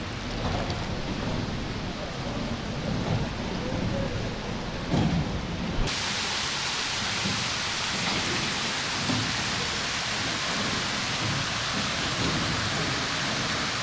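Steady rush of falling water, changing abruptly about six seconds in to a fuller, hissier wash.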